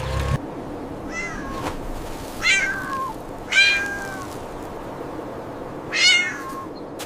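A cat meowing four times, short high meows spaced a second or more apart, the first one fainter. A low rumble cuts off just after the start.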